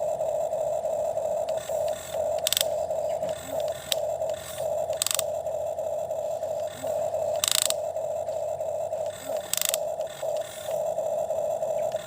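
Small electric motor and gears of a toy excavator whirring steadily, with a short scraping burst about every two and a half seconds.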